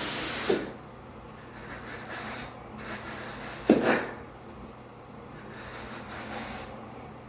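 Steel knife blade scraping and rasping across dry-pack shower pan mortar as it is shaped and smoothed, with one sharp knock a little under four seconds in.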